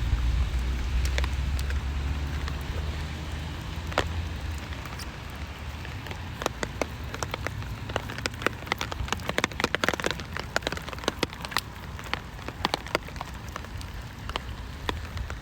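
Rain falling, with many separate drops ticking sharply on a hard surface over a steady hiss of rainfall. A low rumble underneath fades out over the first few seconds.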